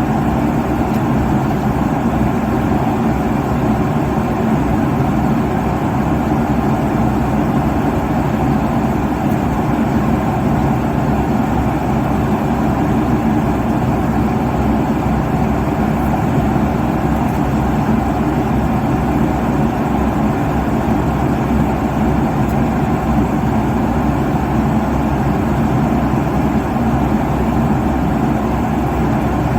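Airliner cabin noise at cruise: a steady, even rush of engine and airflow noise, strongest in the low and middle range, with no changes.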